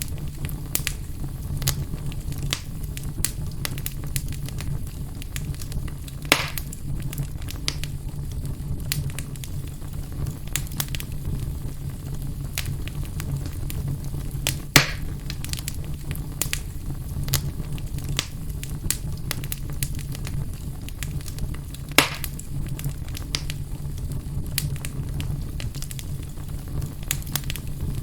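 Fire burning in a fireplace: a steady low rumble with frequent small crackles and a few louder pops, about 6, 15 and 22 seconds in.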